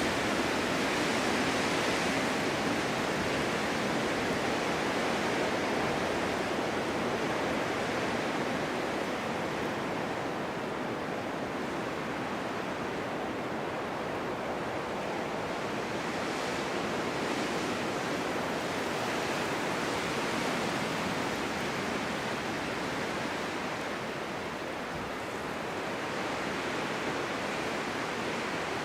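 Snowstorm wind blowing steadily, its rushing noise slowly swelling and easing.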